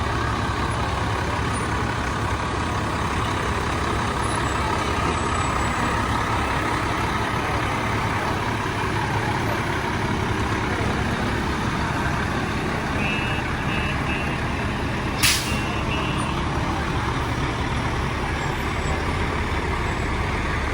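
Heavy truck's diesel engine running steadily as it moves slowly past, with one short, sharp air-brake hiss about fifteen seconds in.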